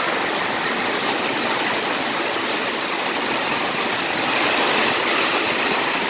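Heavy rain pouring down, with water running off a building, a steady, dense rushing hiss.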